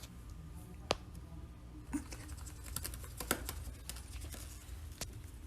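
Scattered light clicks and taps at an uneven pace, with a few sharper ticks standing out, over a steady low room hum.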